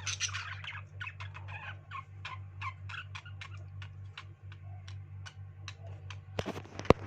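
Pet birds chattering in a quick run of short, high chirps, about three or four a second, over a steady low hum. A single sharp knock sounds near the end.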